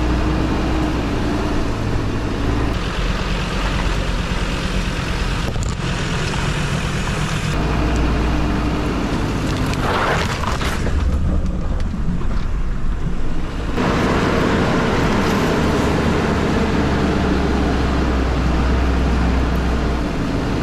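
Off-road 4x4 engine running at low revs in low range while crawling down a rough track, its note shifting a few times. There is a short burst of noise about ten seconds in.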